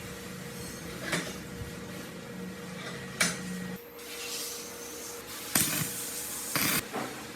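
Workshop handling sounds: several sharp knocks and clatters of tools or parts being set down and moved, over a low steady hum that stops about four seconds in.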